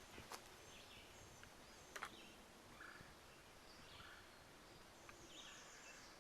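Faint outdoor quiet with scattered short bird calls, high and brief, and a couple of soft clicks.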